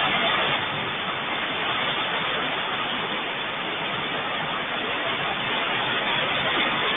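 Heavy rain falling, a steady even hiss with no thunder heard.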